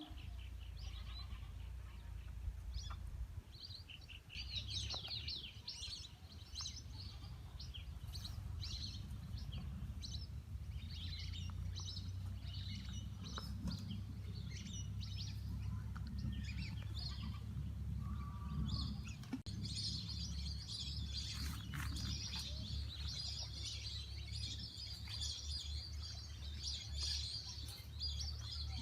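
A flock of birds chirping and twittering, many short calls overlapping, thickening into a dense chorus about two-thirds of the way through. A steady low rumble runs underneath.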